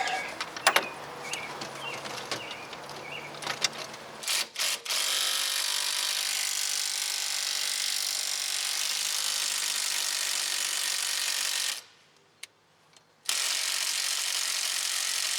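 Impact wrench hammering at a stubborn bolt that doesn't want to come loose, in two long steady runs: one from about five seconds in, and a second starting about thirteen seconds in after a short stop. Before that come a few seconds of tool handling and clicks.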